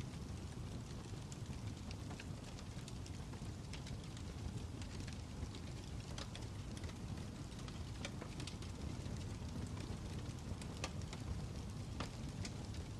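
Wood fire crackling: a steady low rumble with frequent, irregular sharp pops and snaps.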